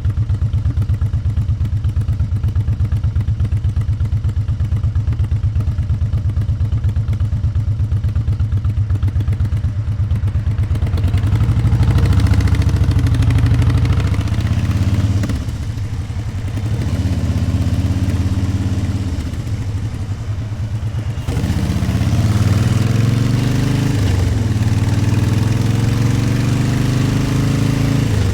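Motorcycle engine idling with an even, rapid pulse, then pulling away about eleven seconds in and accelerating, its sound dropping briefly at two gear changes. Wind noise on the microphone grows as speed builds near the end.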